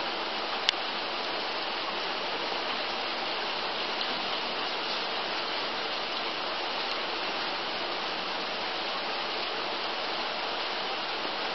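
Steady rain falling, an even hiss with no let-up, and one sharp tick less than a second in.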